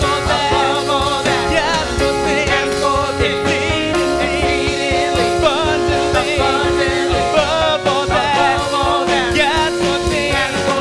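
Church praise team singing a gospel worship song with instrumental backing, voices wavering over held chords and a steady bass.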